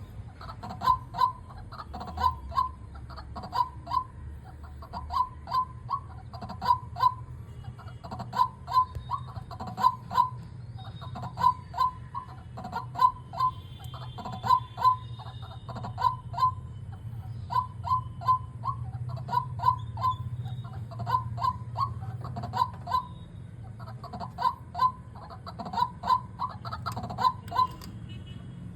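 A bird calling over and over in short clusters of two to four loud notes, a cluster about every second and a half, over a steady low hum; a fainter, higher twittering comes in around the middle.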